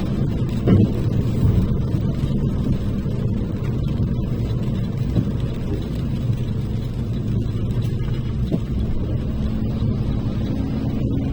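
Car driving, with a steady low rumble of road and engine noise heard from inside the cabin and a few brief knocks.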